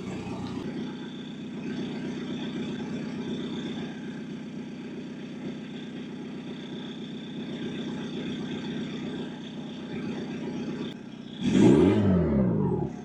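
Volkswagen TDI turbodiesel idling steadily through a 3-inch stainless steel dual exhaust, then revved once near the end, the pitch rising and falling back toward idle.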